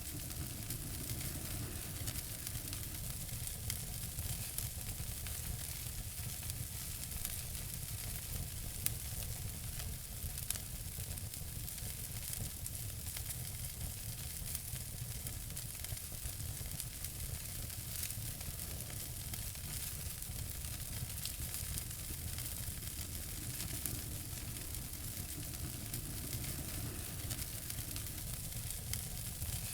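Wood fire burning in a fireplace, crackling and hissing steadily with scattered small pops.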